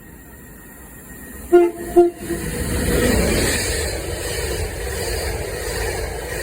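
A train sounds two short horn blasts on the same note, then passes close by with a steady rumble of wheels on the track.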